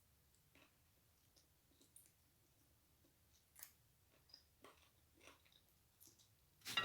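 Faint, sparse wet mouth clicks and chewing of a person eating close to the microphone, with a louder cluster of clicks near the end.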